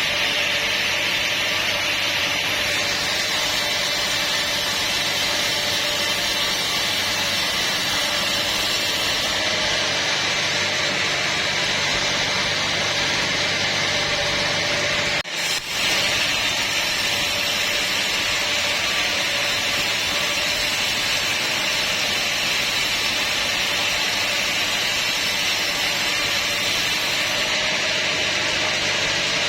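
Sawmill saw running steadily through teak timber, with a brief dropout about fifteen seconds in.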